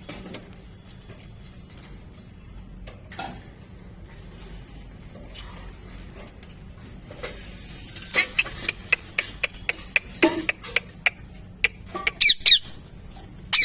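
Pet parrot giving a quick run of short, sharp squeaks and clicks in the second half, ending in a few high squawks.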